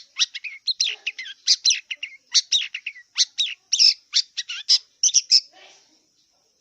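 Long-tailed shrike singing a fast, varied chatter of short high notes, which stops about five and a half seconds in.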